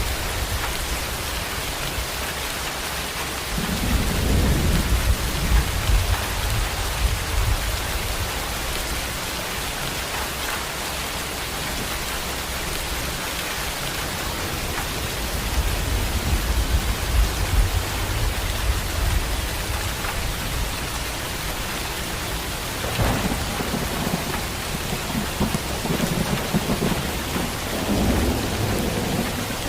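Heavy rain pouring steadily, with rolls of thunder rumbling low over it several times: once a few seconds in, again in the middle, and twice more near the end.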